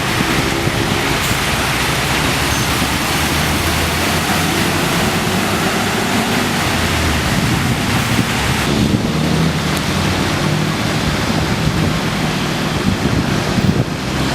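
Strong wind rushing over the microphone, with the steady low hum of vehicle engines underneath.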